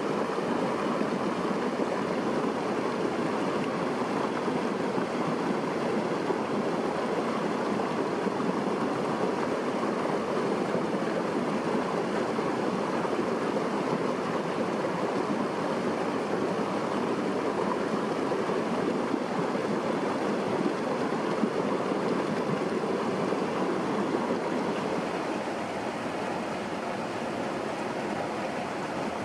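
Steady rush of running water, easing slightly near the end.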